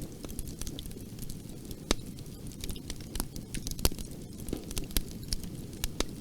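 Wood fire burning with a steady low rumble and frequent irregular crackles and pops, a few sharper snaps standing out.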